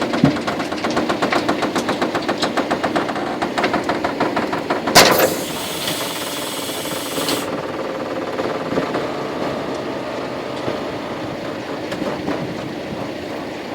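Heavy truck diesel engine running with a rapid, even pulsing beat, about six or seven a second. About five seconds in comes a sudden loud bang followed by a hiss of about two seconds, then steadier engine noise.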